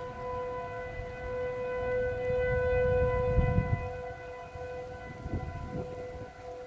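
Outdoor tornado warning siren sounding a steady, unwavering tone with a low rumble underneath.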